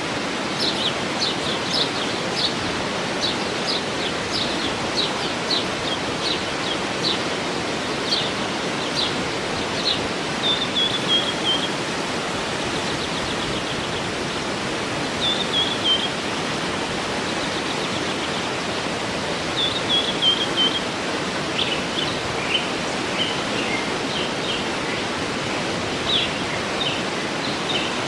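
Waterfall rushing steadily, with songbirds calling over it: many short chirps and several brief falling whistled phrases.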